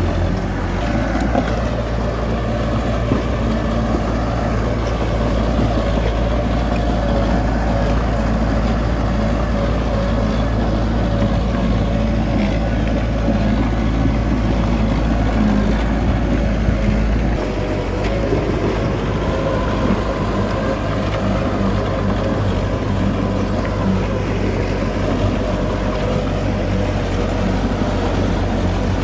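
Heavy diesel engine of earthmoving machinery running steadily under load, its low drone shifting in pitch about seventeen seconds in.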